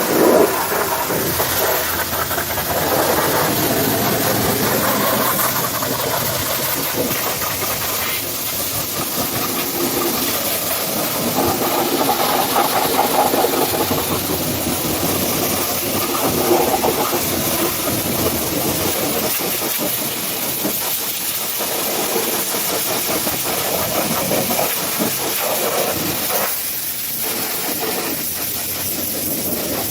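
Pressure washer spraying water onto a truck: a continuous, loud hiss of spray with a motor running underneath.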